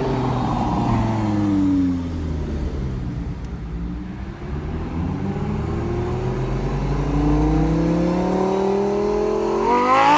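Lamborghini Gallardo LP570-4 Superleggera's V10 engine: its pitch falls over the first couple of seconds, then climbs steadily through the rest, building to its loudest point at the very end as the car accelerates hard.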